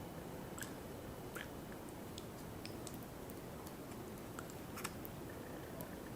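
Faint eating sounds: scattered soft clicks of chewing and mouth sounds, about a dozen in all, over a steady background hiss, with the sharpest click about five seconds in.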